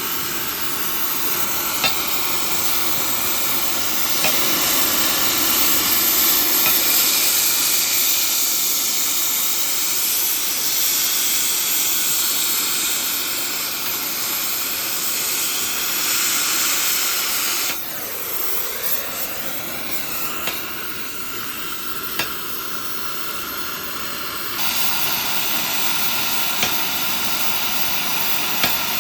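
Oxy-fuel gas cutting torch hissing steadily as it cuts through a steel excavator track chain link. The hiss drops and changes briefly about two-thirds of the way through, is quieter for a few seconds, then returns at full strength near the end, with a few faint clicks along the way.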